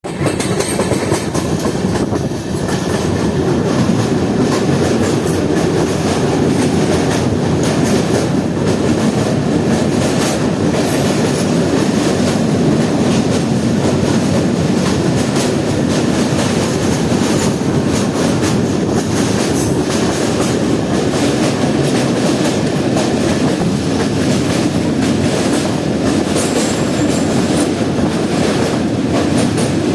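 Train crossing a railway bridge: a steady, loud rumble of wheels on the rails with a clickety-clack of wheels over rail joints.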